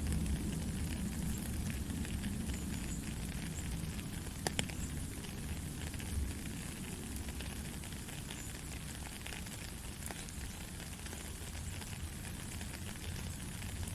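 Gentle steady rain: a dense, even hiss with scattered drop ticks, a couple of sharper ones about four and a half and six seconds in.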